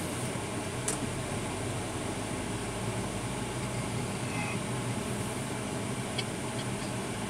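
Truck engine running and road noise heard from inside the cab while driving: a steady drone with a couple of faint clicks.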